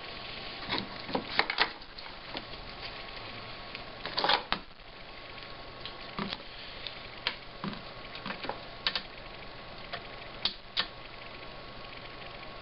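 Irregular clicks, taps and clatter of small parts and tools being handled on a repair bench, over a steady background hiss. The loudest clatters come about a second and a half in and just past four seconds.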